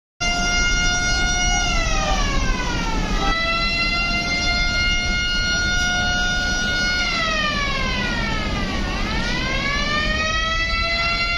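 A passenger launch's horn blowing one long continuous blast. Its pitch sags twice and recovers, once snapping back up abruptly, over a steady low rumble.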